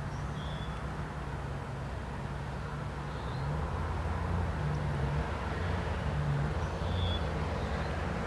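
Diesel locomotive engines running with a low, steady rumble, growing a little louder about three seconds in.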